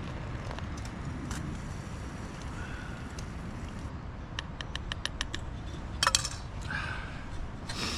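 Small metal camp cookware clinking and rattling as hot drinks are made: a quick run of light clicks about halfway through, and a louder clatter about six seconds in. Low steady wind noise runs underneath.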